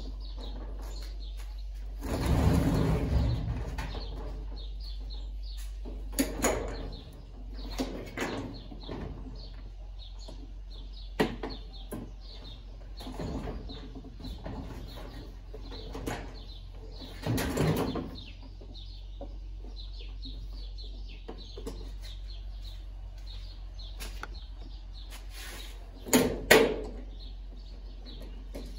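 Intermittent knocks, clatter and scraping of washing-machine parts being handled during disassembly, over a steady low hum. There are louder bursts of handling about two seconds in, just past the middle and near the end.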